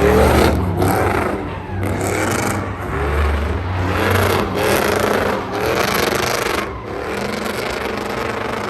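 Truck engine running at high revs with tyres spinning on pavement, the rough tyre noise surging and easing about once a second, as in a burnout.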